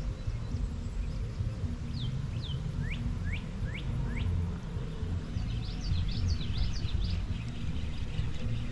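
Birds calling: a run of short upward-sweeping chirps, then a quick cluster of high notes in the second half, over a steady low rumble of wind on the microphone.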